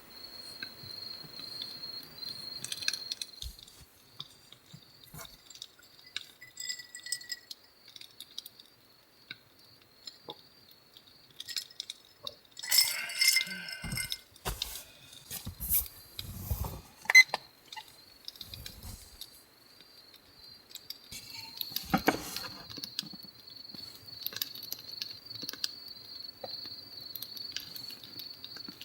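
Crickets chirping steadily in a high, pulsing trill. About halfway through comes a few seconds of clinking and clattering, as glass and dishes are handled.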